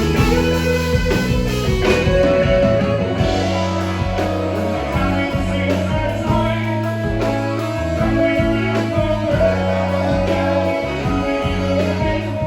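Live blues-rock band playing, led by electric guitar over held bass notes and drums, with singing.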